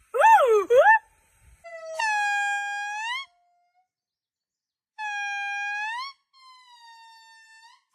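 Monkey calls: first a quick pair of swooping, whistle-like calls, then long, steady, horn-like calls that rise in pitch at their end, the last one fainter and slowly falling.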